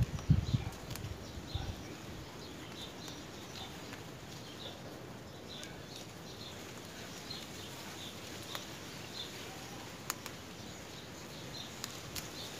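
Small birds chirping in the background: short, high chirps a few times a second over a steady outdoor hiss. A few soft thumps come in the first two seconds, with occasional faint clicks.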